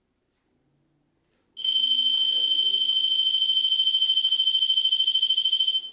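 REM pod's piezo alarm going off: a loud, steady, shrill high-pitched tone with a fast flutter. It starts about a second and a half in, lasts about four seconds and cuts off near the end.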